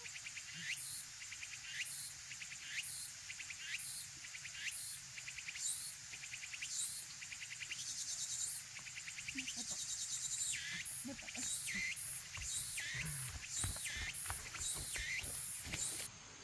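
An insect calling in repeated high chirps, about one a second at first and quickening to about two a second in the second half. A few soft knocks come near the end, and the sound cuts off abruptly just before the end.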